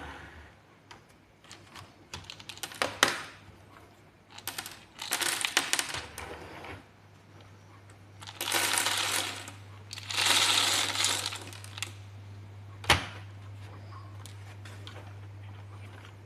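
Small hard plastic building-block pieces clicking and clattering as they are handled, with several rustling bursts about a second long and a single sharp click near the end, over a steady low hum.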